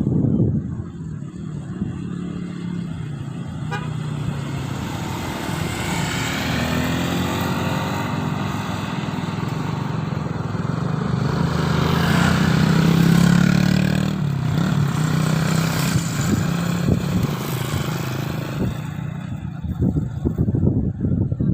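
A motor vehicle's engine running, its sound swelling to a peak around the middle and then easing off.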